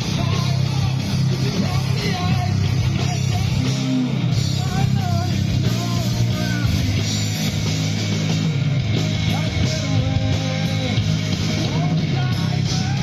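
Rock band playing live, loud and continuous, with electric guitars over a heavy bass and drums.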